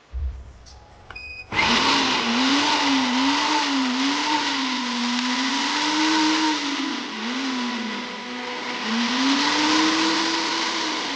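Tefal BL811 blender's motor starting up about a second and a half in and running at speed, test-run after servicing. Its hum wavers up and down in pitch. It is preceded by a low thump.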